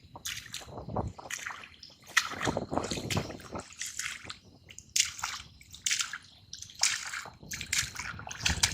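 Wet tidal mud squelching and water sloshing in a run of irregular bursts, a few each second, as the mud is worked and things are pulled out of it.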